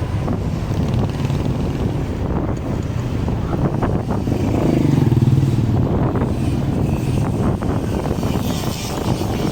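Motorcycle engine running steadily on the move; the engine note swells for a second or two around the middle.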